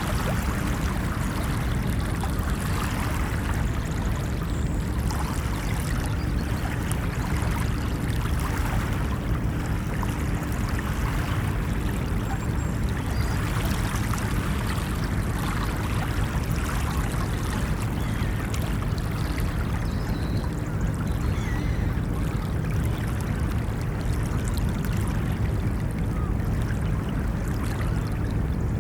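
Ocean waves washing onto a beach: a continuous, even wash of surf with a strong low rumble underneath.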